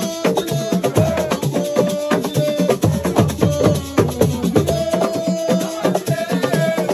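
Senegalese assiko music playing: a steady, busy beat of drums and clacking percussion with held melodic notes over it.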